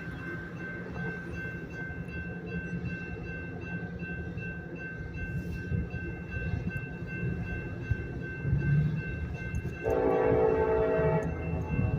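Union Pacific diesel freight locomotives, an SD70AH leading, rumbling steadily as the stack train comes on. About ten seconds in, the lead locomotive's air horn sounds one chord-like blast of about a second and a half.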